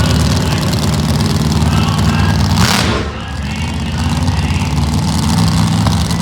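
Monster truck engine running loud and steady, with a brief rush of noise just before the midpoint. After the rush the engine drops back, then builds up again.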